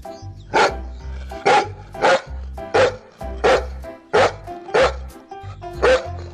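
A dog barking repeatedly, about eight single barks at a fairly even pace, over background music with a steady bass rhythm.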